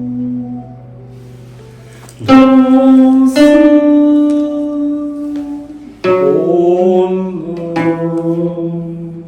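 A plucked Chinese zither-type string instrument plays slow single notes that ring on and fade, with a sliding bend in pitch about six seconds in.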